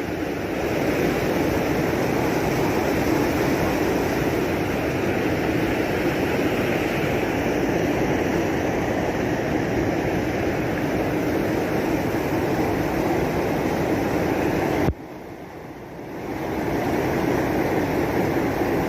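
Steady, heavy rain, an even rushing noise. It drops away sharply about fifteen seconds in, then builds back up.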